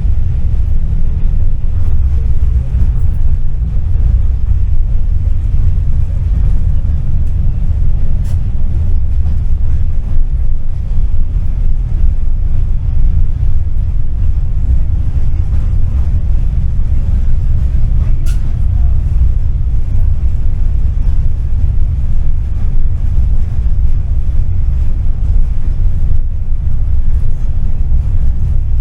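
Tram running steadily, a constant low rumble of its running gear on the rails, heard from inside the car, with a couple of faint clicks along the way.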